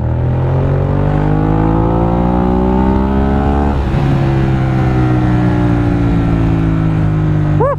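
Car engine accelerating, heard from inside the cabin: the revs climb steadily for about four seconds, drop at a gear change, then hold roughly steady in the next gear.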